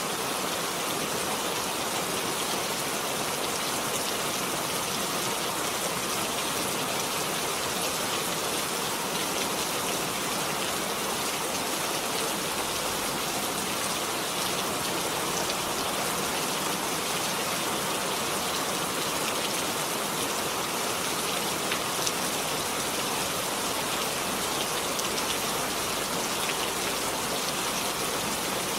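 Steady rain falling, an even hiss of many drops with faint patter, without let-up.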